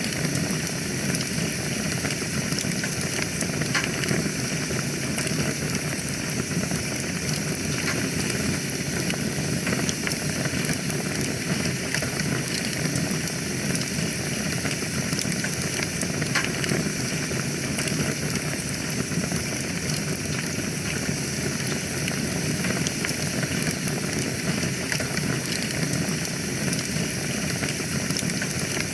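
Wood fire burning in a fireplace: a steady hiss and low rumble of flames with frequent small crackles and pops.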